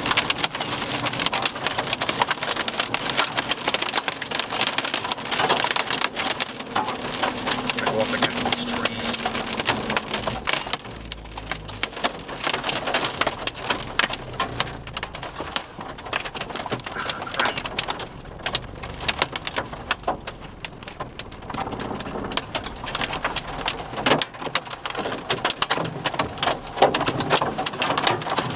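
Heavy rain with hail pelting down: a dense clatter of many small impacts that eases for a while in the middle and picks up again.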